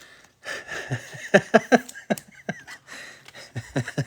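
A man's indistinct murmuring and short chuckles, in brief vocal bursts that the recogniser did not turn into words.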